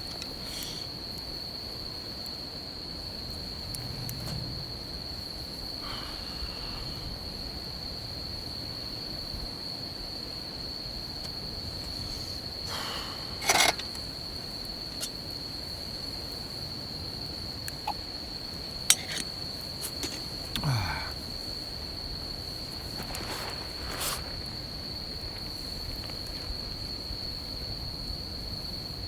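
Crickets trilling one steady high-pitched note, with a few sharp crackles from a campfire now and then.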